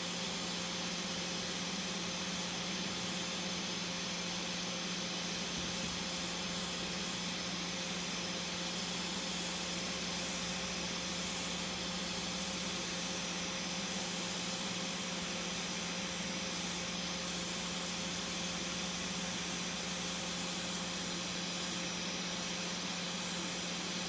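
Hot air rework station blowing steadily with an even hiss and a low hum, heating the CPU on an iPhone X logic board to soften its solder before it can be lifted.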